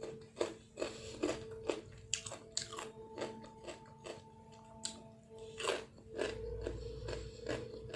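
Close-up chewing and crunching of food in the mouth, with irregular crisp bites a few times a second, over a faint steady hum.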